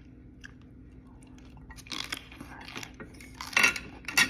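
Close-up chewing of crisp pickled cabbage. Quiet at first, then irregular wet crunches from about halfway, with two loud ones near the end.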